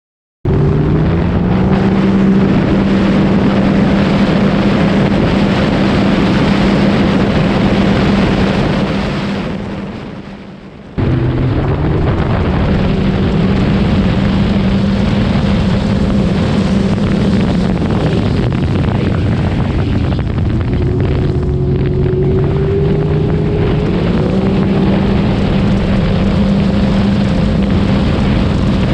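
Supercharged Sea-Doo RXP-X 300 jet ski engine with an aftermarket Riva Racing exhaust running hard at speed: the pitch climbs just after it starts and holds steady, with another climb a little over twenty seconds in. About nine seconds in it fades away and then cuts back in suddenly at full level.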